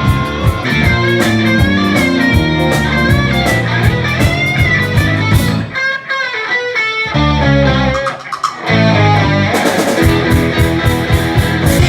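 Rock music with electric guitar and drums playing from a car stereo, an instrumental passage in which the bass and drums drop out briefly twice near the middle.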